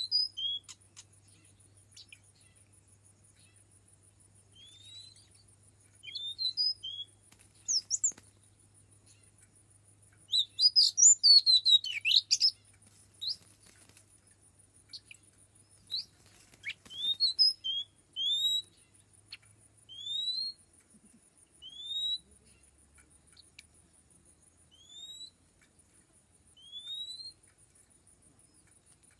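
Oriental magpie-robin calling: scattered short rising whistles, a loud rapid burst of varied song notes about ten to thirteen seconds in, then a steady series of single upward-sweeping whistles about every couple of seconds. A faint steady high-pitched pulsing buzz and a low hum run underneath.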